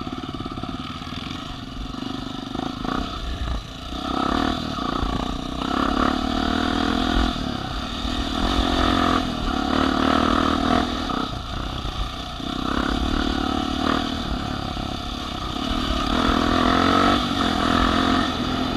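Off-road vehicle engine revving in repeated surges, rising and falling in pitch several times as it works over rough ground.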